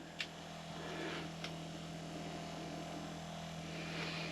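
A steady low electrical-sounding hum, with a couple of faint clicks and soft rustling.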